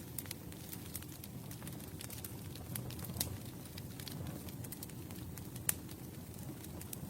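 Campfire burning: a steady low rumble of flames with irregular crackles and sharp pops from the burning wood, the loudest pops a little after three seconds and just before six seconds.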